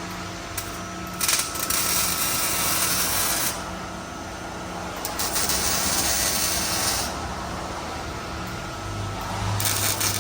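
A shop tool working on the exhaust, hissing in three bursts of about two seconds each over a steady low hum.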